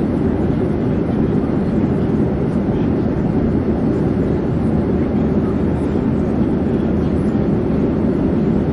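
Airplane in flight: a steady, low, unchanging drone with no rise or fall in pitch or level.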